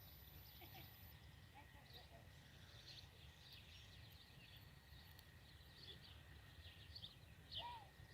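Faint open-air ambience: scattered small bird chirps over a low steady rumble, with one louder call near the end.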